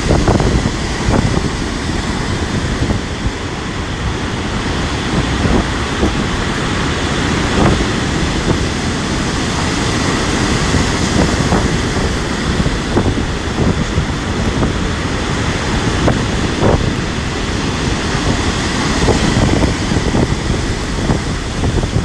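Strong, gusty wind buffeting the microphone, with stormy sea surf breaking in the background.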